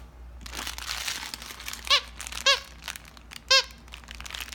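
Dog toys being handled and rustled, with crinkling, and a squeaker toy squeaking three short times.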